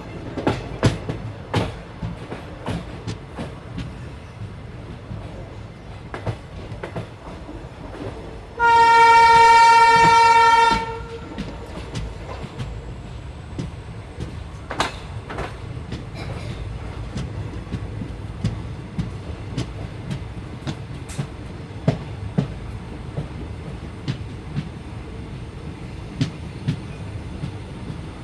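Train running on rails: a steady low rumble with irregular sharp wheel clicks over the rail joints. A single horn blast of about two seconds sounds about a third of the way in, the loudest thing in the stretch.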